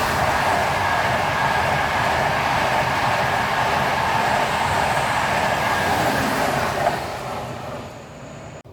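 A train passing at speed, a steady rush of wheel and rail noise with a faint steady whine, dying away from about seven seconds in.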